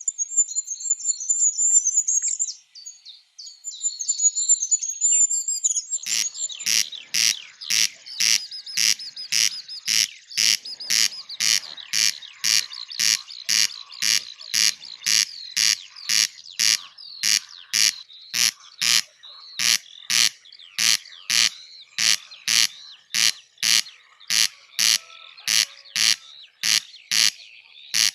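Birds chirping and tweeting. From about six seconds in, a steady repeating pulse, about three strokes every two seconds, runs over the chirping.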